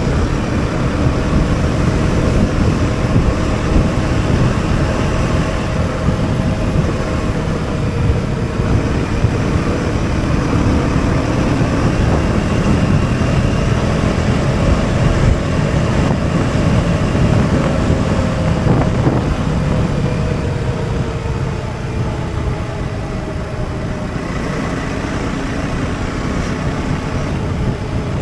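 Husqvarna Svartpilen 401 single-cylinder engine running steadily under way, its note drifting slightly as the speed changes, under a heavy rumble of wind on the microphone.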